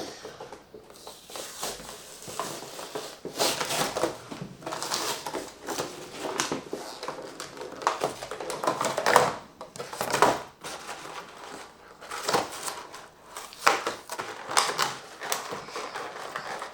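Toy packaging being opened and handled by hand: irregular crinkling, crumpling and clicking of cardboard and plastic in short bursts.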